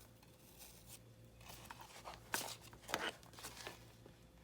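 Paper rustling and crinkling as journal pages are handled and thread is drawn through them for a pamphlet stitch, with two louder sharp rustles about two and a half and three seconds in.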